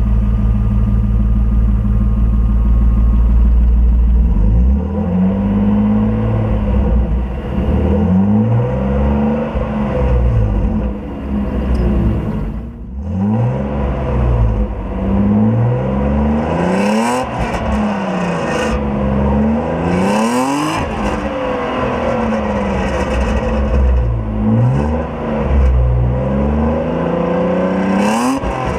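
BMW E36 320i's 2.0-litre straight-six idling steadily, then revved over and over, the pitch rising and falling with each blip of the throttle.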